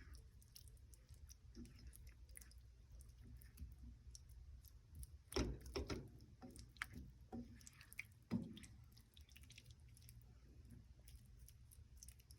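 Faint sounds of a pot of tuna and potatoes cooking: a few soft clicks and knocks of cookware, the clearest about five and a half and eight seconds in, over a low steady hum.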